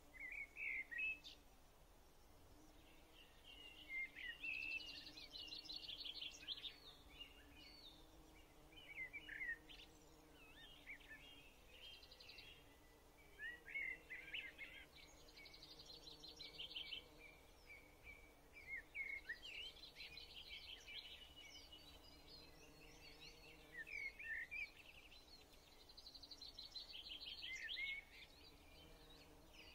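Birds chirping and twittering in quick flurries every few seconds, faint, over a low steady hum.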